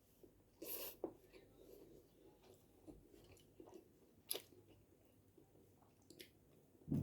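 A person chewing food close to the microphone, with a few short crunches and clicks; the sharpest click comes about four seconds in.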